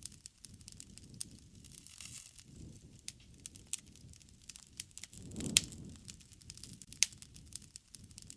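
Wood fire crackling: irregular sharp snaps and pops over a soft low rumble of flame, with a louder pop about five and a half seconds in.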